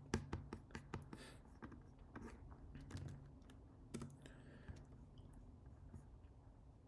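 Faint typing on a computer keyboard, irregular key clicks that thin out after about five seconds.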